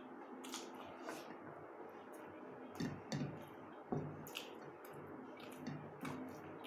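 Wet eating sounds of rice and egg curry: squelchy chewing and lip smacks, with a few sharper smacks now and then.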